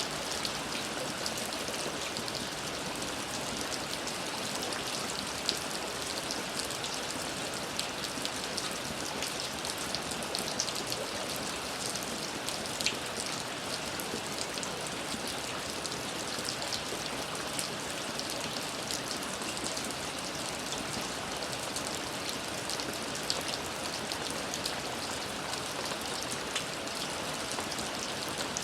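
Steady rain falling, an even hiss of rainfall with many small, sharp drop ticks on a hard surface.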